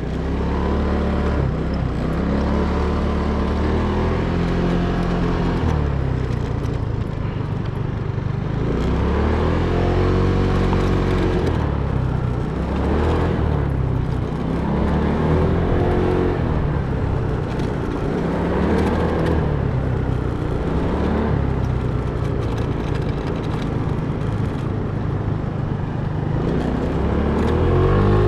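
Car engine running while driving, its pitch rising and falling several times as the vehicle speeds up and slows.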